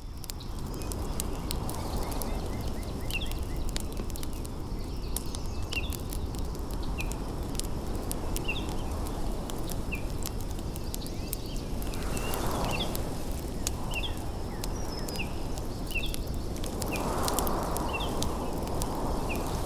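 Layered autumn nature ambience: a steady low rushing bed with short high bird chirps repeating irregularly, scattered light clicks, and two broad rushing swells in the second half.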